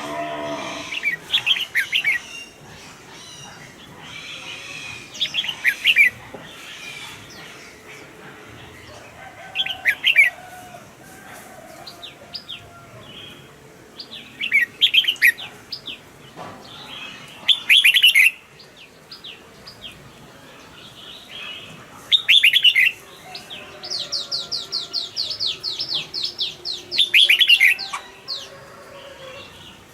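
Red-whiskered bulbul singing: short, loud whistled phrases every few seconds, and near the end a quick run of repeated high notes, about four a second, lasting some three seconds.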